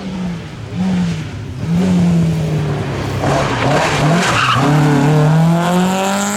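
Rally car engine revving hard, its pitch dipping and rising through the gears and climbing steadily near the end as it accelerates. Tyres skid noisily midway through.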